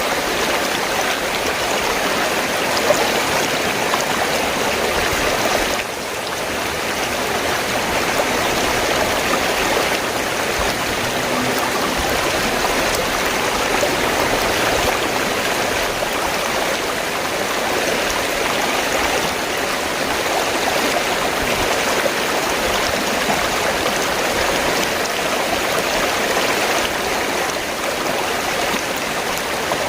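River water flowing, a steady, even rush of running water that dips briefly about six seconds in.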